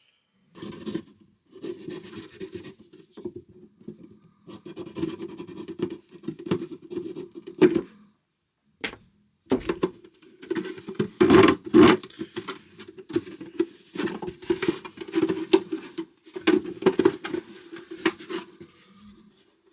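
A plastic container being worked by hand: irregular scraping, rubbing and tapping, with short pauses and a quiet gap about halfway through.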